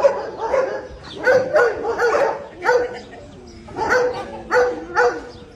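A dog barking repeatedly, roughly two barks a second, with a short pause about three seconds in.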